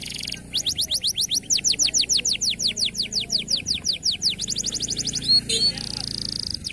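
Canary singing: a fast, even series of downward-sweeping high notes at about seven a second, opening with a buzzy note and broken near the end by a short held whistle.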